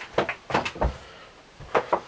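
Handling noises from small parts and tools on a workbench: a few light clicks and knocks, a dull thump a little under a second in, then more clicks near the end.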